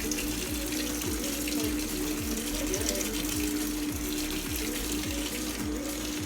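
Top-loading washing machine filling: water pouring steadily into the drum, with a steady hum underneath.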